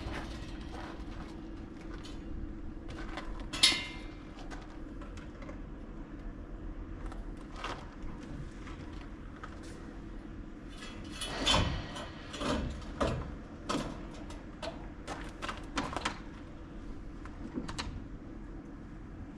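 Scattered knocks, clicks and clatter of things being handled, with a sharp knock a few seconds in and a busier run of clatter past the middle, over a steady hum.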